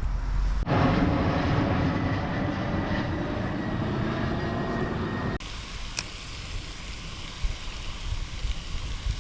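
A motor running steadily, which cuts off abruptly about five seconds in, leaving a quieter steady background noise.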